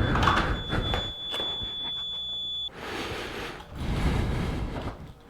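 A steady high-pitched electronic beep tone that cuts off suddenly about two and a half seconds in, amid door and handling clatter.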